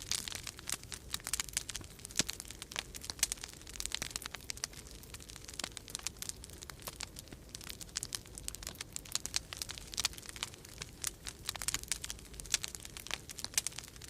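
Wood fire crackling in a fireplace: dense, irregular pops and snaps, over a low steady rumble of winter storm wind.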